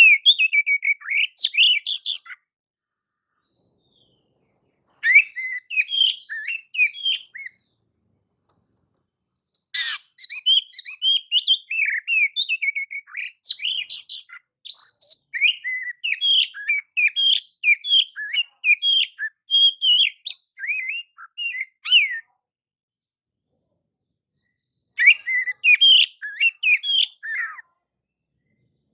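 Oriental magpie-robin singing clear, quick phrases of varied whistled notes, in four bouts separated by silent gaps, the longest running about twelve seconds.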